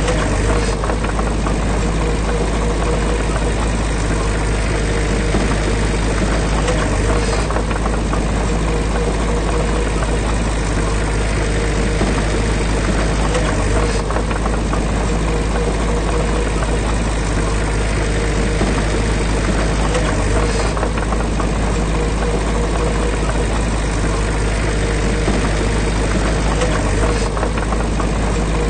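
Heavy diesel engine of earthmoving machinery running steadily at an unchanging speed.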